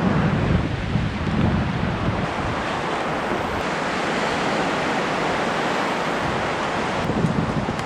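Steady, loud rush of fast whitewater in a mountain river. Wind buffets the microphone with low rumbles near the start and again near the end.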